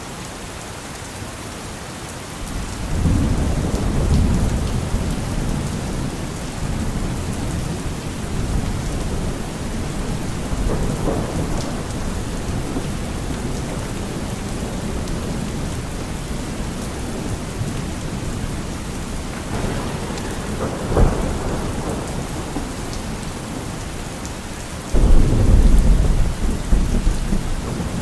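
Steady rain with rolling thunder: a long low rumble builds about two and a half seconds in, a sharp crack comes near the two-thirds mark, and a louder rumble starts near the end.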